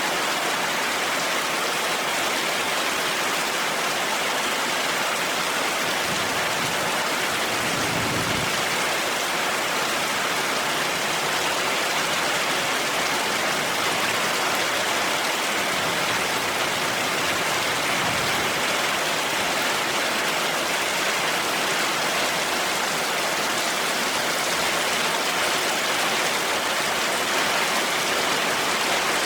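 Heavy rain falling steadily, a dense even hiss of drops. Faint low rumbles of distant thunder swell under it about eight seconds in and again around sixteen to eighteen seconds.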